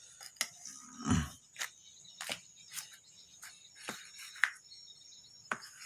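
Irregular light clicks and taps of hand tools working on a refrigerator's circuit board as components are being removed, about a dozen in a few seconds, the sharpest a little after four seconds in. A steady high-pitched insect chirr runs underneath.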